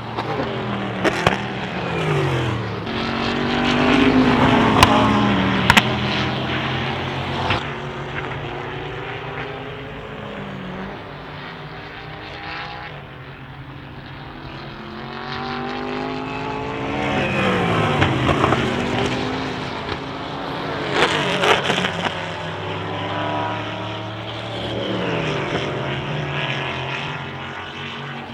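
Endurance race cars going past at speed one after another, each engine note falling in pitch as the car goes by, the loudest pass about five seconds in. A few sharp cracks sound in among the first passes.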